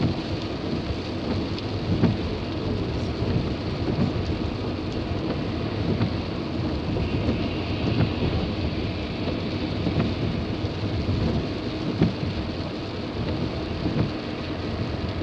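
Steady rumble of a moving car heard from inside the cabin, with rain noise on the car, and a faint knock roughly every two seconds.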